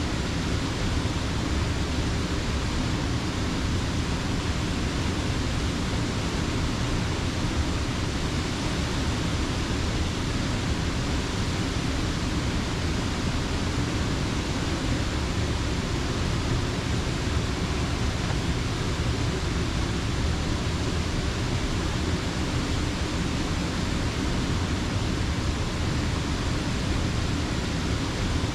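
Steady, unbroken rush of creek water pouring over a dam.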